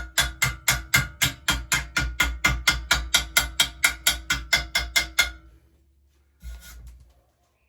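Rapid, even hammer taps on the steel pit bike frame at the welded swing-arm mount, about five a second for some five seconds, the metal ringing under each blow. A short scrape follows near the end.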